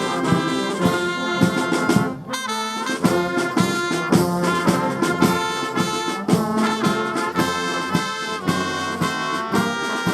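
Fire brigade brass band playing, with trumpets and trombones over regular drum beats.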